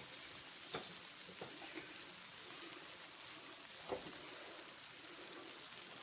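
Orange chicken frying in a skillet: a faint, steady sizzle broken by a few small pops.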